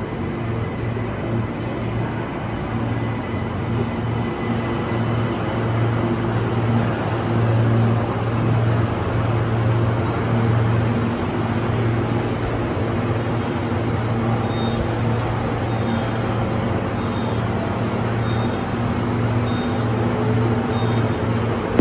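Electric passenger train running, a steady low hum and rumble. In the second half faint high pips repeat about every half-second.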